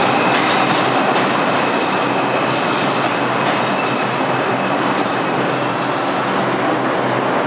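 R62 subway train arriving at the station: a loud, steady rail rumble with scattered wheel clicks over the rail joints and a thin wheel squeal. A brief hiss comes about five and a half seconds in.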